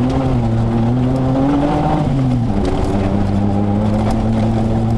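Rally-raid 4x4 car's engine running under load on a gravel track, heard from the car; the engine note climbs slightly, drops about two and a half seconds in, then holds steady.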